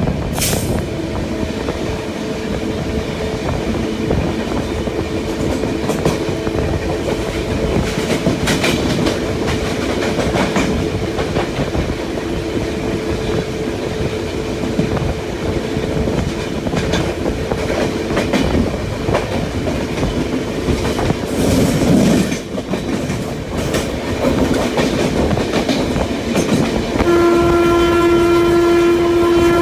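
Express passenger train running at speed, heard from inside a coach: steady rumble and wheels clattering over the rail joints, with a steady hum that fades about two-thirds of the way through. Near the end a train horn starts, one loud held multi-tone blast.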